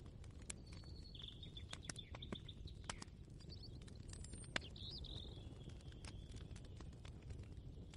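Kitchen ambience: a steady low rumble under scattered light clicks and taps, with small birds chirping in short phrases about a second in and again around the middle.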